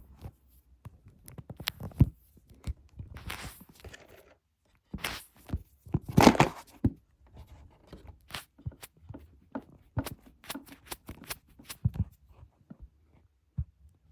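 ASMR tapping and scratching by fingers close to the microphone: irregular sharp taps, with a few longer scratchy rubs, the loudest about six seconds in.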